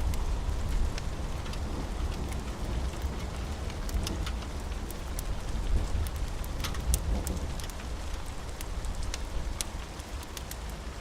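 Steady rain with a deep low rumble underneath, scattered with sharp crackles from a wood fire.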